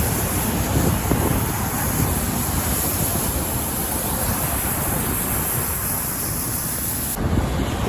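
Wind buffeting the microphone over the steady noise of road traffic, with no single event standing out. The high hiss drops away suddenly about seven seconds in.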